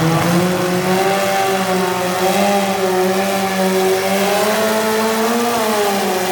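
Modified garden tractor pulling engine running hard at high revs, its pitch wavering a little and dipping briefly near the end before picking back up.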